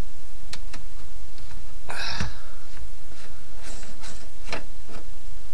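Scattered clicks and knocks from handling tools and parts, with one louder clatter about two seconds in, over a steady low hum.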